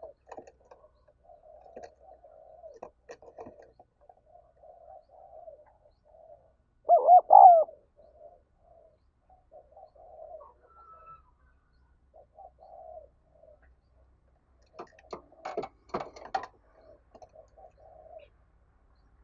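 Spotted doves cooing: soft repeated coos throughout, with one loud, close coo of about three notes some seven seconds in. A brief clatter of sharp knocks comes around fifteen to sixteen seconds.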